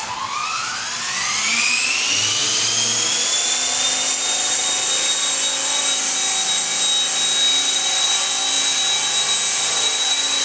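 Belt CP radio-controlled helicopter's motor and rotors whining as they speed up: the high whine rises over the first few seconds, then holds steady.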